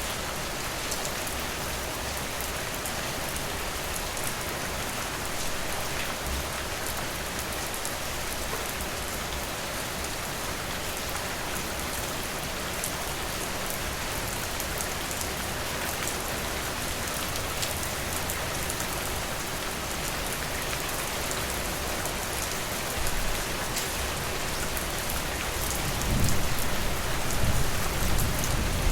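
Steady rain falling, a dense even hiss with fine patter of drops. A low rumble swells in near the end and becomes the loudest part.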